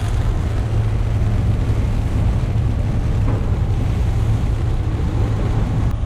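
Wind and rough sea rushing steadily around a sailboat in a thunderstorm's squall, over a constant low drone.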